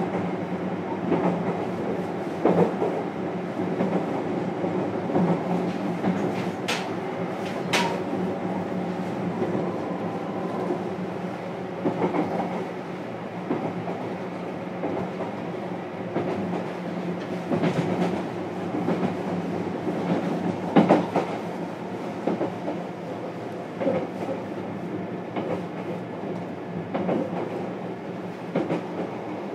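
Running noise inside a JR Kyushu 303 series electric motor car at speed: a steady rumble of wheels and traction motors with a continuous hum, and wheel clacks over rail joints every few seconds.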